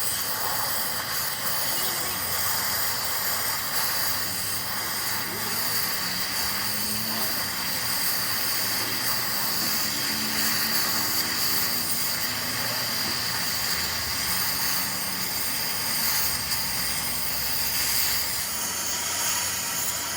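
Steady hissing noise with a constant high whine running through it.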